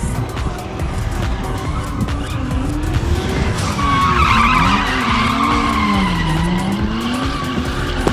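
Drift car sliding, its engine revs rising and falling while the tyres squeal, the squeal loudest from about four to five and a half seconds in.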